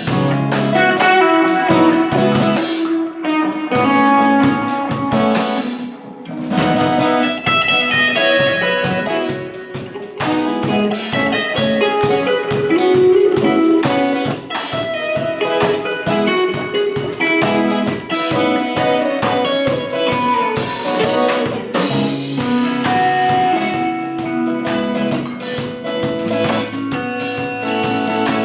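Guitar played through a Boss GT-100 multi-effects processor into two amplifiers in stereo: a continuous passage of plucked notes and chords.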